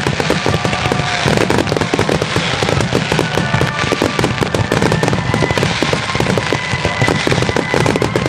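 Fireworks finale barrage: a dense, unbroken stream of bangs and crackles from many shells bursting in rapid succession.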